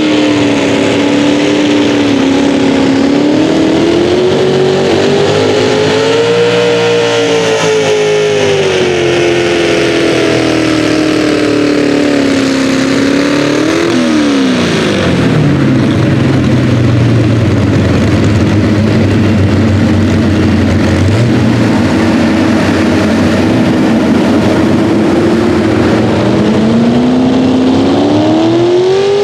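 A Pro Stock four-wheel-drive pulling truck's engine running loud at high revs, its pitch wavering up and down. About halfway the revs fall off sharply and hold lower and steadier, then climb again near the end.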